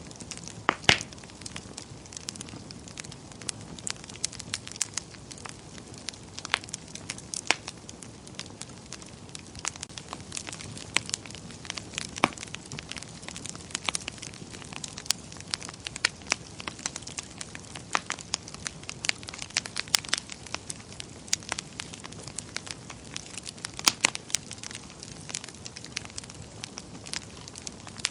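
Wood fire crackling in a fireplace: irregular sharp pops and snaps over a soft steady hiss, with a louder pop about a second in and another near the end.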